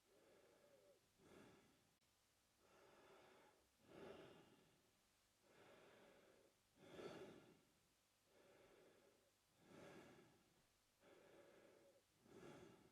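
A man breathing quietly through his mouth in a slow, regular rhythm, one full breath in and out roughly every three seconds. Each cycle pairs a softer, even breath with a louder breath that swells and fades.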